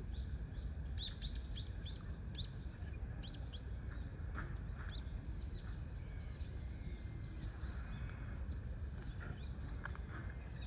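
Common kingfisher calling: a quick run of short, high, sharp chirps about a second in, then a series of thin, high whistled notes. A steady low rumble of background noise lies under the calls.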